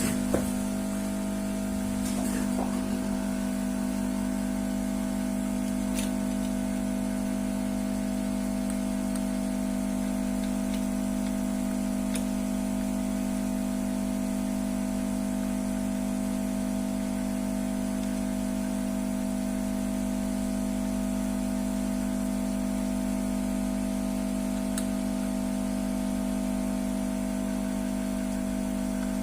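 A steady, unchanging mechanical hum with a few faint clicks.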